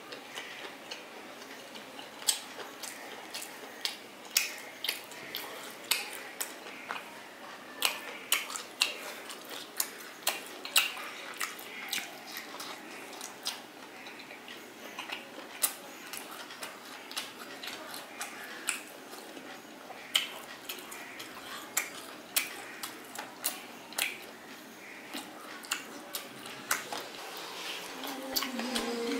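Close-miked chewing of steamed chicken momos: irregular wet mouth clicks and smacks, one to three a second. A low steady tone joins near the end.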